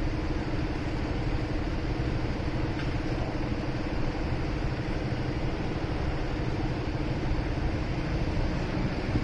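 Motorcycle engine running steadily at an even pitch, with a constant hum and road and traffic noise.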